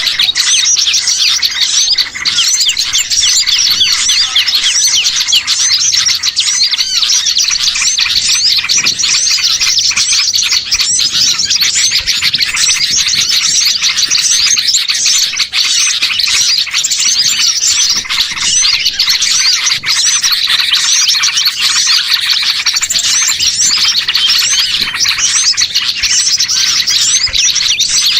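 Dense, unbroken chorus of many small songbirds chirping and twittering over one another: a mixed small-bird lure recording ('pikat burcil') meant to draw wild birds in.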